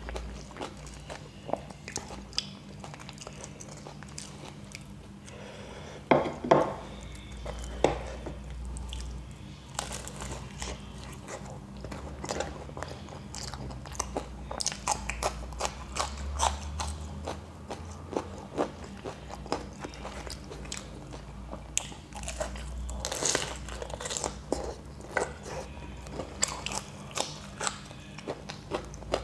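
Close-up eating of fried samosas and raw green chillies: crunching bites and wet chewing, irregular clicks and smacks throughout, loudest about six to seven seconds in.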